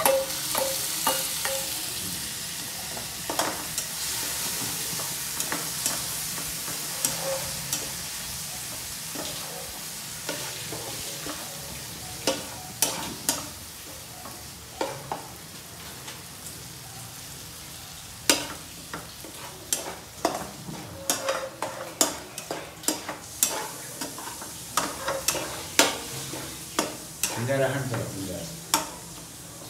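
Chopped tomatoes hitting hot oil and spices in a wok, sizzling loudly at first and dying down over several seconds. Later a spatula stirs the mixture, scraping and knocking against the pan in many quick, irregular clicks.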